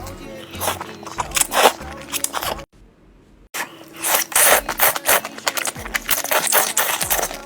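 Close-miked eating sounds, rapid crunching and chewing clicks, over background music. About three seconds in, everything cuts out for almost a second, then the crunching comes back denser and louder.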